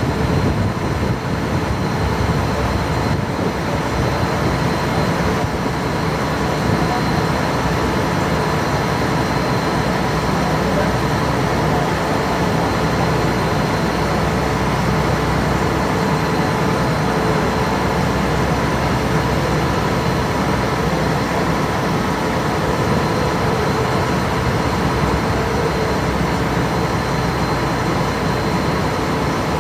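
A passenger ferry's engine running steadily under way, a constant heavy drone with a few faint steady tones over it.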